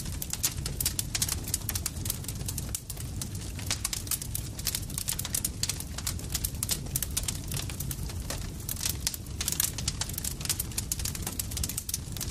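Campfire crackling: a dense, irregular run of sharp pops and snaps over a steady low rumble.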